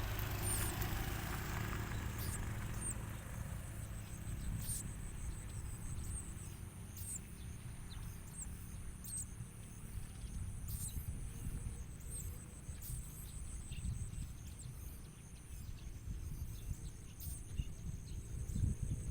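Small songbirds, prinias, giving short sharp high-pitched chirps at irregular intervals, over a steady thin high tone and a low rumble.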